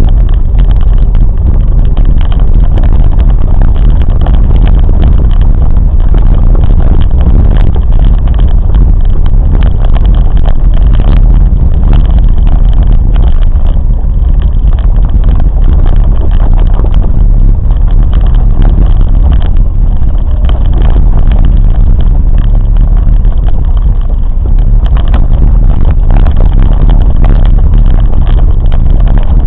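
Train running along the line: a loud, steady low rumble that carries on without a break.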